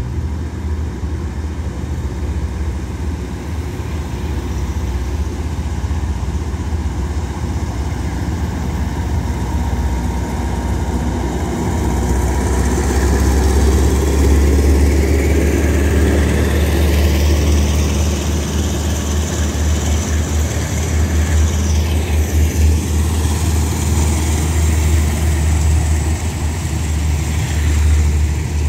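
Diesel-electric locomotive of a passenger express running under power, with a deep engine hum that swells as it nears and passes about 12 to 14 seconds in. A long train of passenger coaches then rolls by, its wheels running on the rails with a high hiss over the rumble.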